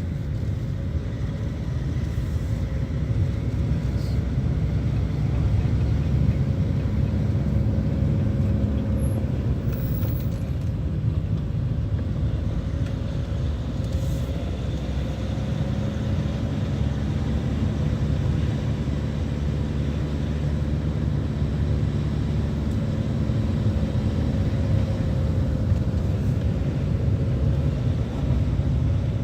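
A car being driven: steady engine and road rumble with a faint wavering engine hum.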